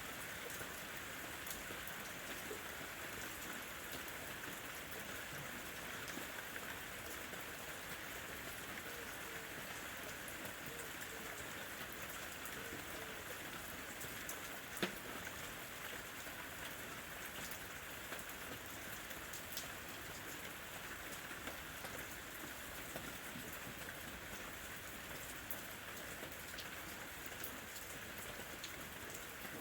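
Steady rain falling, with scattered sharper drop hits and one louder drip about halfway through.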